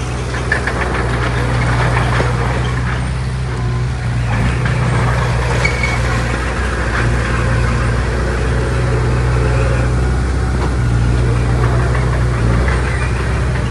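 Diesel engine of heavy earthmoving machinery running steadily, with scraping and clattering of rock and metal over it.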